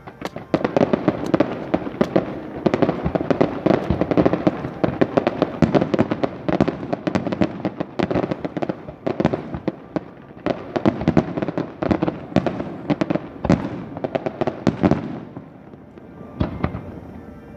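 Fireworks display: a dense barrage of many rapid bangs and crackles from aerial shells, thinning out to a few scattered bursts for the last couple of seconds.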